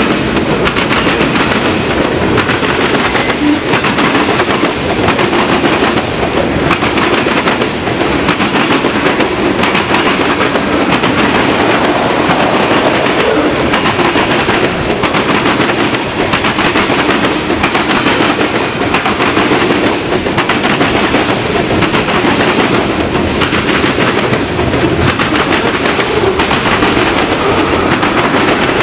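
Railroad cars rolling past, steel wheels clattering rapidly and continuously over the rail joints, loud and steady throughout.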